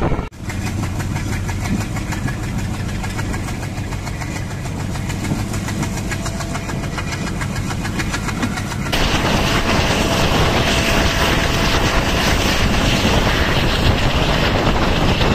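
Passenger train running, heard from on board: a steady low rumble of the moving train. About nine seconds in it jumps suddenly louder, with more hiss.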